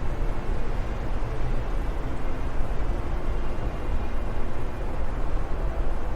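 Wind blowing steadily: a continuous rush of noise, heaviest in the deep low end, with small rapid rises and falls in strength.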